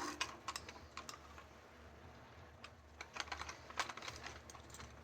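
Faint, irregular light clicks and taps of small metal parts being handled, coming in two short flurries: one in the first second and another from just under 3 s to about 4.5 s in.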